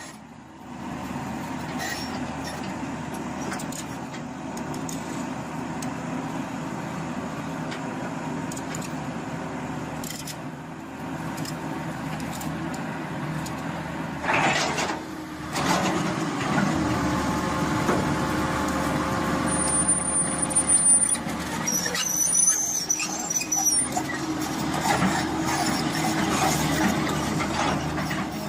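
Road vehicle noise with a steady rumble, a sudden louder burst about halfway through, and brief high-pitched squeals later on.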